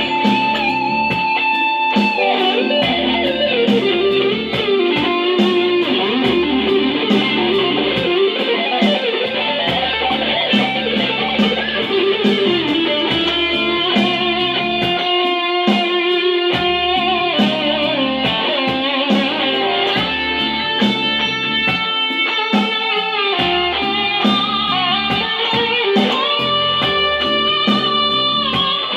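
Fender Squier electric guitar playing an improvised lead line, with held notes, string bends and vibrato, over a steady beat with bass.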